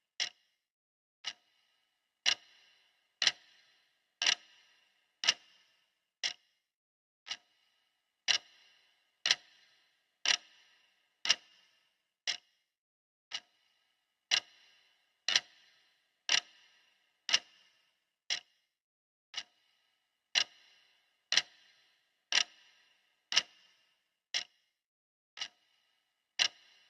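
Clock ticking steadily, about one tick a second, each tick a sharp click with a brief ring after it.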